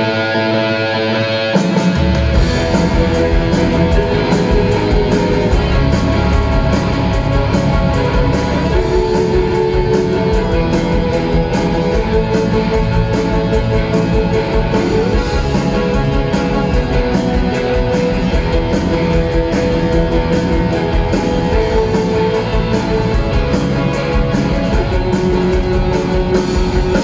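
Rock band playing an instrumental intro: a guitar figure on its own at first, then about two seconds in drums and bass come in under guitars playing a repeating melodic line.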